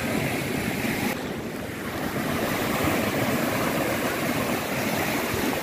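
Ocean surf breaking and washing up a beach in a steady rush. The hiss of the wash thins about a second in, then swells again as the next wave comes in.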